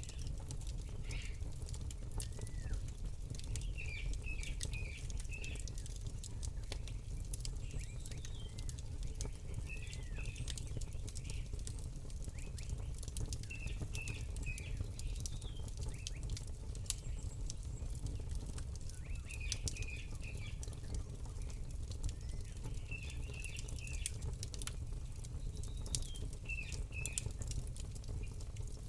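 Campfire crackling, with many small sharp pops over a steady low rumble. A small bird chirps in short clusters of quick notes every few seconds.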